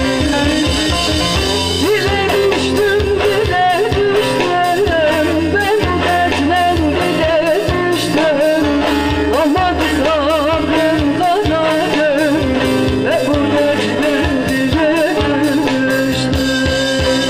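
Live amplified performance of a Turkish folk song (türkü): an ornamented, wavering vocal melody over plucked strings and a steady drum beat.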